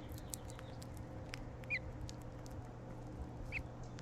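House finch giving short single chirps, twice, with a few light ticks between them over a faint steady hum.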